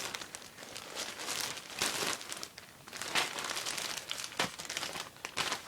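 Packaging bags being handled and pulled out of a larger bag, crinkling and rustling in repeated bursts.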